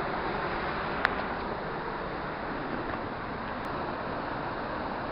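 Steady rush of a waterfall and river running high in spate. There is a single sharp click about a second in.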